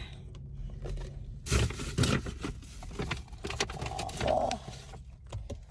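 Takeout food containers being handled and opened: scattered light clicks, scrapes and rustles over a low background rumble.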